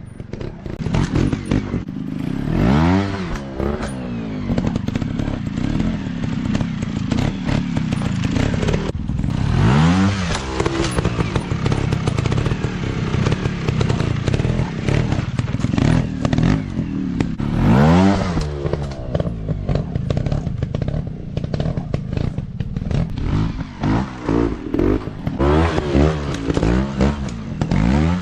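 Small 150 cc-class dirt bike engines running hard, revved again and again. The pitch swoops up and back down about 3, 10 and 18 seconds in, with several quicker rev swoops near the end, over a constant rattly engine drone.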